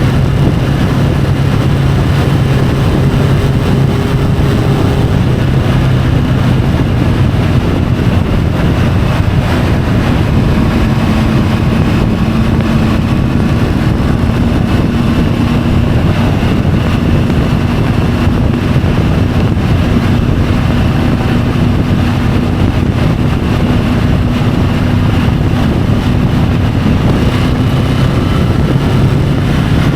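Triumph Tiger 850 Sport's inline three-cylinder engine running at a steady road speed, heard from the bike-mounted camera with a constant rush of wind and road noise. The engine's pitch shifts about a third of the way in and then holds steady.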